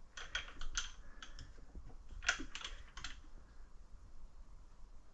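A quick run of light clicks and taps from working the milling machine's controls while zeroing an axis on the digital readout, over the first three seconds, then only a faint hum.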